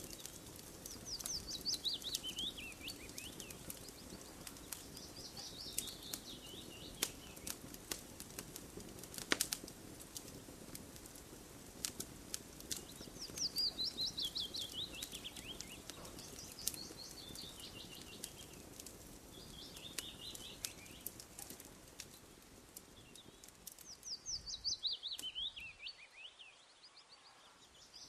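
Campfire crackling with scattered sharp pops over a steady low hiss. A songbird repeats a quick trill of notes that falls in pitch, every few seconds.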